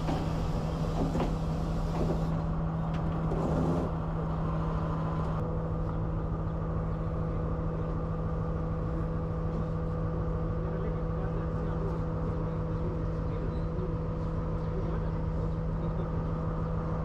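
Diesel train's engine droning with a steady low hum. The rattle of the running train fades over the first few seconds as the train comes to a halt at a signal, leaving the engine idling.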